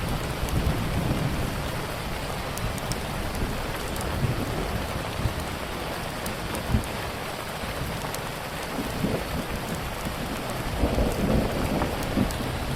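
Steady rain with the sharp pops and crackles of a wood fire scattered through it. Low rumbles come and go, loudest near the end.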